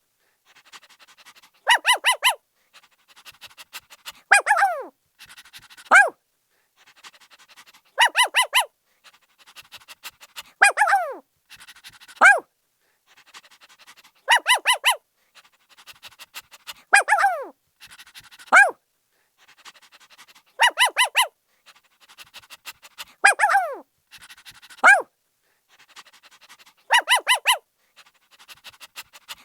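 Puppy barking in short, high-pitched yaps: a quick run of three or four yaps, then a couple of yelps that fall in pitch. The same pattern repeats about every six seconds.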